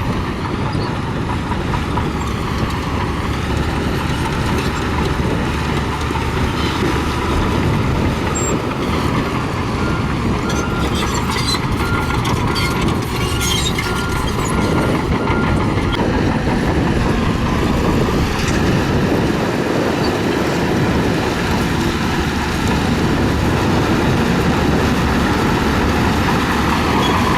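Crawler bulldozer's diesel engine running steadily, with the clatter of its steel tracks. A faint, evenly repeated beep sounds partway through.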